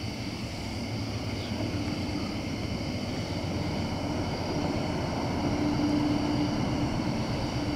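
Approaching train, its locomotive engine still out of sight: a low steady rumble with a faint hum that grows louder up to about six seconds in. Crickets chirp steadily underneath.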